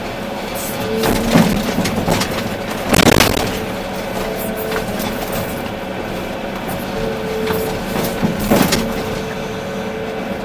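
Volvo EC380D excavator's diesel engine running steadily under work, with a higher tone that comes and goes. Several crunching impacts of the bucket on rock or spoil break through: one about a second and a half in, the loudest about three seconds in, and another near eight and a half seconds.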